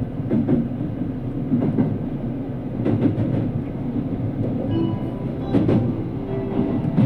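Inside the car of a JR Kyushu 787 series limited express running at speed: a steady rumble of wheels on rail, with the clack of rail joints every second or so.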